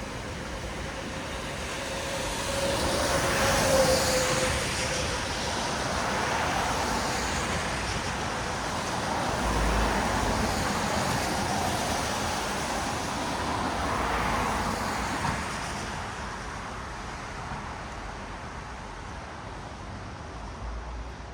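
Road traffic on a wet city street: vehicles passing with the hiss of tyres on wet asphalt, swelling three times as cars go by, the loudest about four seconds in with an engine tone under it, then easing off in the last few seconds.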